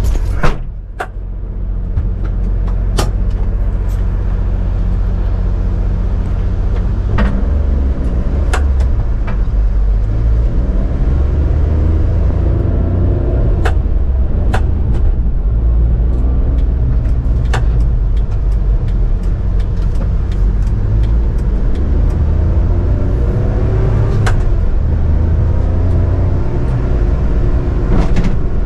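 1995 Mitsubishi Minicab kei truck driving, its 660cc three-cylinder engine running under steady heavy road and drivetrain noise, with the engine note climbing several times as it pulls away and accelerates. A sharp thump comes about half a second in, and light clicks and rattles are scattered throughout.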